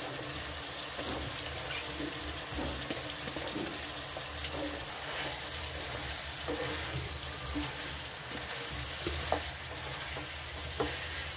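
Potatoes and cauliflower florets sizzling in masala in a frying pan, with a wooden spatula scraping and knocking against the pan as they are stirred; the knocks come more often near the end.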